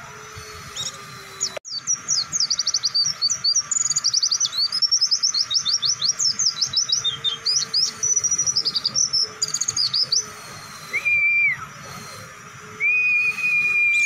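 White-eye (pleci) singing a long, rapid run of high twittering notes for about eight seconds. It ends with two flat, drawn-out whistles near the end.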